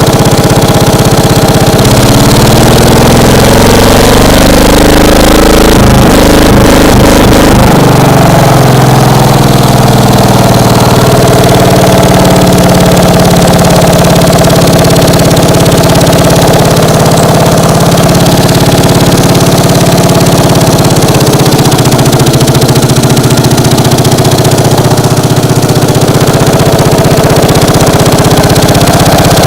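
Case 220 hydraulic-drive garden tractor's engine running on a cold start after three months unused. Its speed rises and falls through the first several seconds, then it settles into a steady run.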